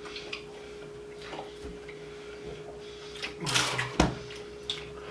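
Quiet eating and handling noises from people wolfing down sandwiches, over a steady low hum, with a short louder burst ending in a sharp knock about four seconds in.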